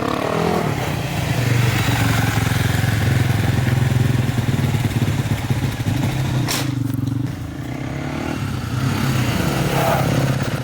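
Dirt bike engine running under throttle, easing off briefly about eight seconds in and then picking up again.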